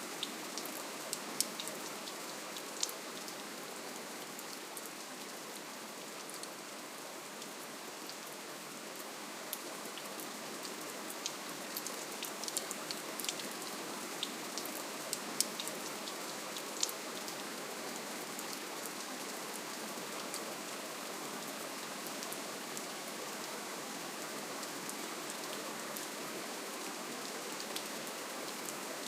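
Steady, gentle rainfall: an even hiss with many individual drops ticking on a surface, the drops thickest from about 11 to 17 seconds in.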